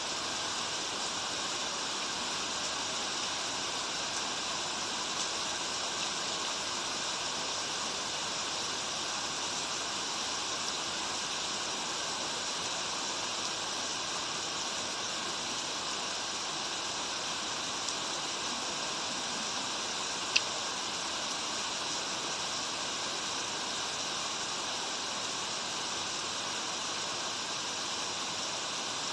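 Steady rush of rain and running stream water, even and unbroken. About two-thirds of the way through there is a single sharp tick.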